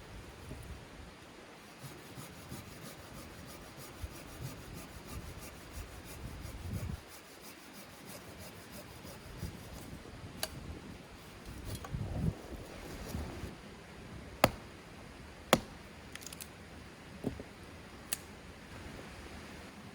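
Wood being rubbed and scraped by hand, with several sharp clicks or knocks in the second half, two of them loudest and about a second apart.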